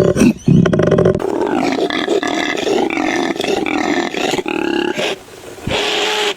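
Animal calls: a loud, low, pulsing call for about the first second, then a long wavering call that shifts in pitch. A short call follows near the end.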